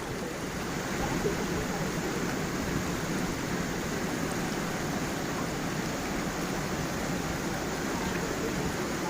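Stream water flowing and splashing over stones in small falls, a steady, even rushing.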